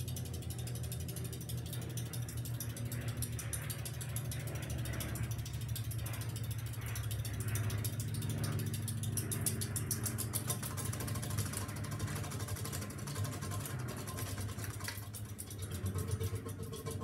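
Halsey GEV ceiling fan running: a steady motor hum with a rapid, even ticking or rattle over it.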